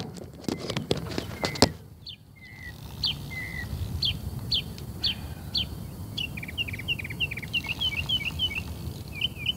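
A songbird chirping: single short falling chirps about two a second, then a quicker run of notes, over a low rumble. Several sharp clicks sound in the first second or two, before the bird.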